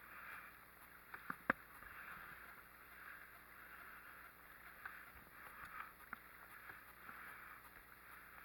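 Small boat under way: a faint, steady wash of water with a few sharp knocks, the loudest about a second and a half in.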